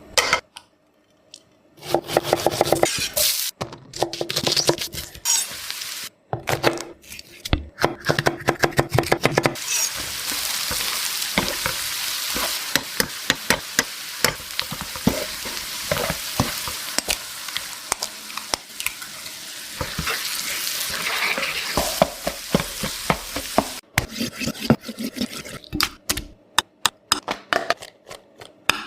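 Cooking sounds of egg fried rice being made: a utensil clinks rapidly against a ringing bowl or pan, then food sizzles steadily in a hot pan while a spatula taps and scrapes through it, with more clinking and scraping near the end.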